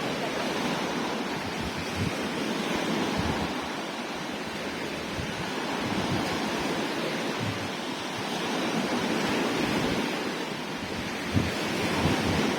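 Sea waves washing on the shore, the surf noise swelling and falling back over several seconds, with wind buffeting the microphone in low gusty thumps.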